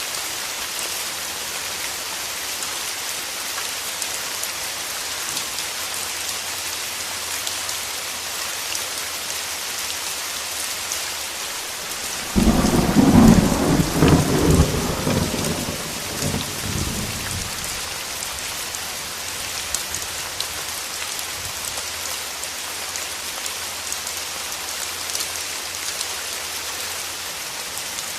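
Steady heavy rain with a thunder clap about 12 seconds in: a sudden loud crack that rumbles on and fades away over about five seconds, then the rain goes on alone.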